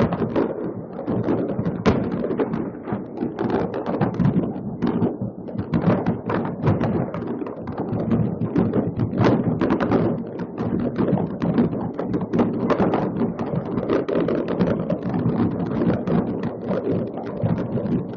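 Massed fireworks going off across a city: a dense, unbroken run of overlapping bangs, pops and crackles, with no single burst standing out much above the rest.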